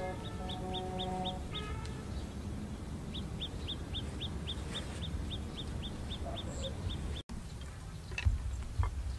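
Birds calling: a rapid series of short, high chirps, about five a second, with a lower drawn-out call in the first second and a half. A few sharp knocks near the end.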